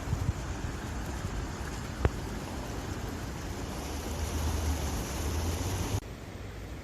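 Stream water flowing in a steady rush, with wind buffeting the microphone as a low rumble. A single sharp click about two seconds in, and the sound drops abruptly a little before the end.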